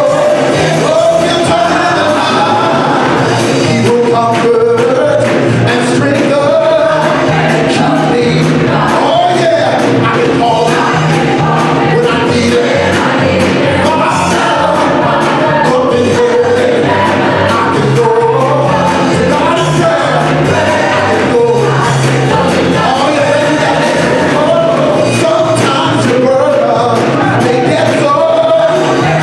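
Gospel music: several voices singing over a band, with held bass notes and a steady drumbeat.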